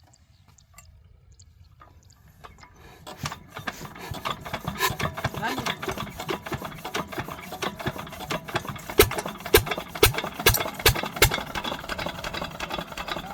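12 hp diesel engine of a water-pump set starting up about three seconds in, then running with a fast, regular knocking beat that grows louder, with heavier knocks about twice a second in the later part.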